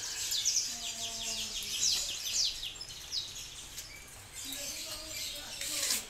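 Small birds chirping: quick, high, downward-sliding chirps in repeated clusters throughout.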